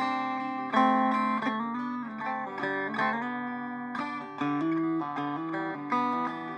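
Circa 1936–37 electric Vega banjo played in simple old-fashioned clawhammer (frailing) style: plucked notes and struck chords in a steady rhythm, each ringing and fading.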